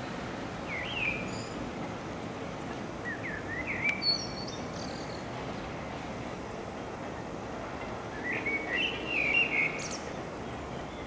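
A small bird chirping in three short bursts of quick rising notes, about one, four and nine seconds in. Behind it is a steady background noise from the railway yard.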